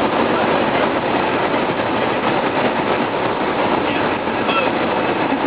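Cessna 172's engine and propeller running steadily, heard as a constant drone inside the cabin.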